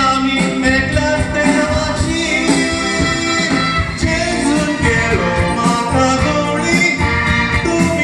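A Konkani song: singing over band accompaniment with a steady beat.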